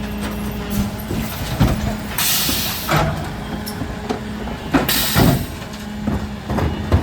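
Mercedes Econic refuse truck running with a steady low hum, with two loud hisses about two and five seconds in and a few short knocks.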